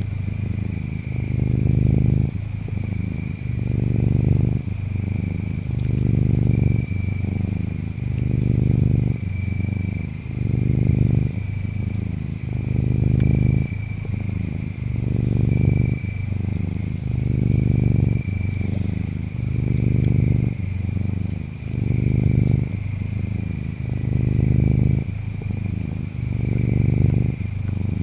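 Cat purring close up, a low rumble that swells and fades about once a second with each breath. Behind it, insects chirp: a steady high trill, with clusters of very high chirps coming and going.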